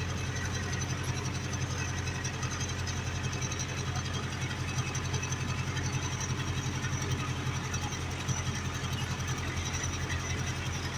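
Ursus 385 tractor's diesel engine running steadily under ploughing load, an even low drone with no change in speed.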